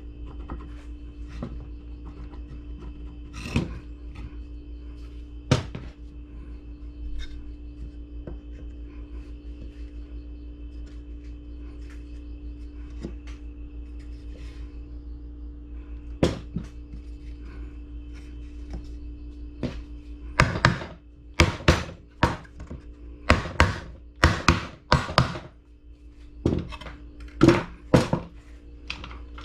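Wood being knocked: a few separate thunks, then from about two-thirds of the way in a quick run of loud wooden knocks, several a second, over a steady low hum.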